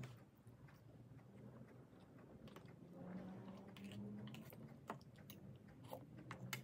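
Faint close-up eating sounds: a person chewing a mouthful of pork adobo and fried rice, with irregular small wet clicks and smacks of the mouth. A faint steady low hum comes up about halfway through.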